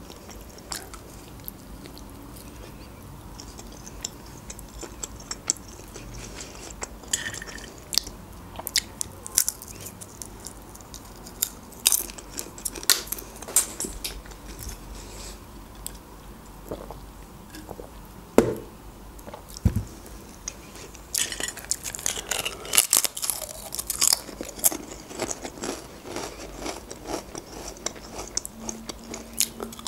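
Close-miked eating sounds: chewing with scattered wet clicks of the mouth, then, about two-thirds of the way in, a run of crisp crunching as potato chips are bitten and chewed.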